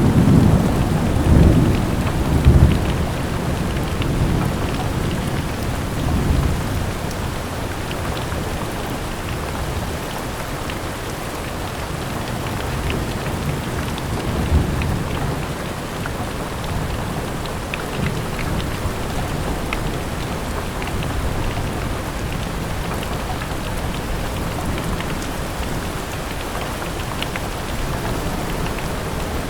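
Steady heavy rain, with low thunder rumbling in the first few seconds and fainter rumbles again later.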